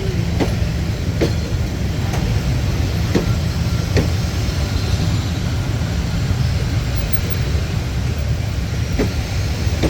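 Train running past: a steady low rumble of the wheels on the track, with sharp clacks about once a second over the first four seconds and another near the end as the wheels cross rail joints.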